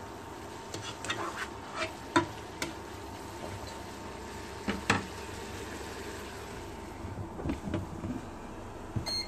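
Cabbage sizzling in a nonstick pot while a wooden spoon stirs and turns it, with scattered sharp knocks of the spoon against the pot. A short electronic beep near the end as the infrared burner is switched off.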